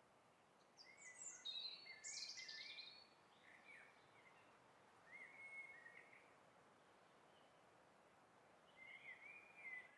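Faint outdoor birdsong: several short bursts of chirping phrases, the strongest a second or two in and another group near the end, over a low steady background hiss.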